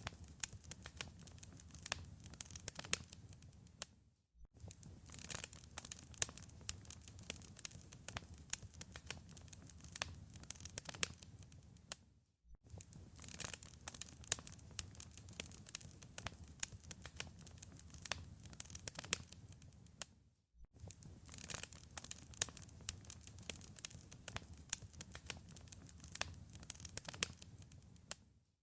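Wood fire crackling in a fireplace: a dense stream of small pops and snaps over a low rumble of burning. The sound cuts out briefly about every eight seconds, three times in all.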